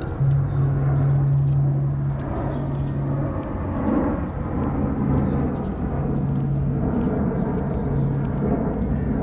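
Bicycle ridden along paved pavement: wind rushing over the camera microphone and tyres rolling, with a steady low hum that starts just after the beginning and a few faint ticks.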